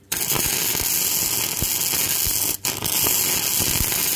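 Flux-core welding arc burning Lincoln NR-211 5/64-inch self-shielded wire: a steady hiss that breaks off for a moment a little past halfway and strikes up again.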